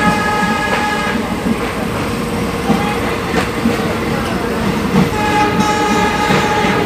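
Passenger train running along the track, its wheels clacking over the rail joints, with the horn held in a long blast that ends about a second in and sounds again from about five seconds in.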